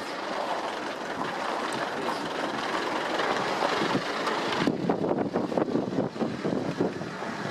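A van driving slowly over a rough, unpaved mountain road: steady road and tyre noise with the body rattling. About two-thirds of the way through, the hiss drops and irregular knocks and jolts stand out.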